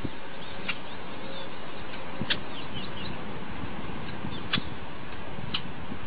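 Steady hiss with a few short, high bird chirps scattered through it, about five in all, each brief and sharp.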